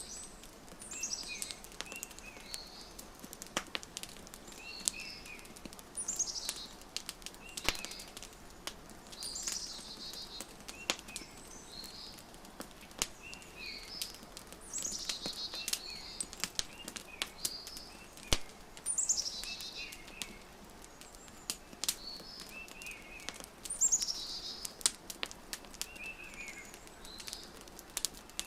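Wood fire crackling with irregular sharp pops, under songbirds calling: high notes that fall in pitch and short chirps, repeating every few seconds.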